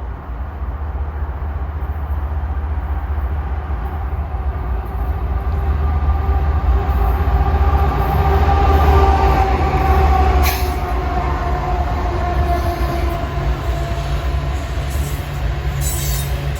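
Freight train passing, a heavy low rumble that grows louder to a peak about halfway through and then eases slightly, with faint steady tones that sag a little in pitch as it goes by.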